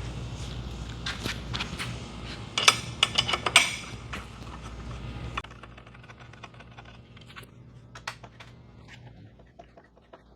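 Metal clinks and clicks of a bolt and hex key being handled as a grab-rail bolt is fed in and tightened, with a cluster of sharp clinks about three seconds in and lighter clicks after. A low hum underneath stops about halfway through.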